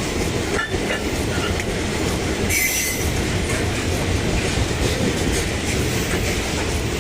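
Loaded iron-ore freight train rolling past, its wagon wheels making a steady rumble on the rails. A brief high wheel squeal comes about two and a half seconds in.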